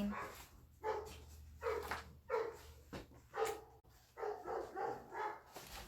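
A dog barking over and over, in short single barks coming roughly every half second with a few brief gaps.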